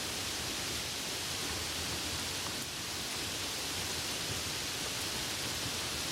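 Soft rain falling steadily, an even hiss with no separate drops standing out.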